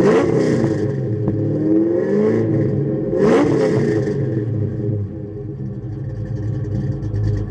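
Ford Mustang 5.0 V8 with a Flowmaster exhaust being revved in quick throttle blips, near the start and again about 3 seconds in, with a slower rev in between, then settling to a rumbling idle.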